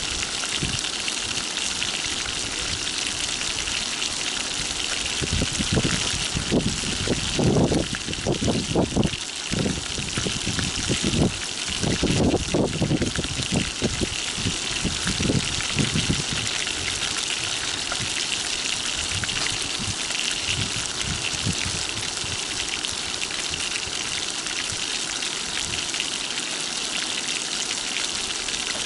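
Flour-dredged rotan (Amur sleeper) fish frying in hot oil in a frying pan: a steady high sizzle. Louder low bumps come and go through the middle.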